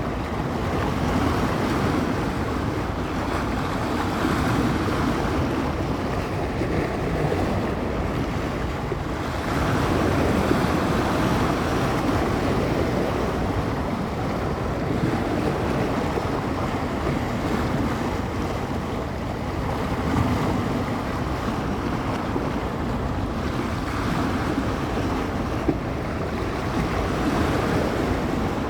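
Wind-driven bay waves breaking on the shore in a continuous rush that swells and eases every few seconds, with wind blowing across the microphone.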